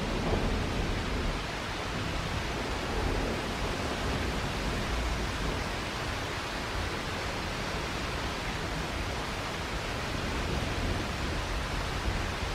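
Heavy rain falling steadily in a thunderstorm, an even hiss with no breaks.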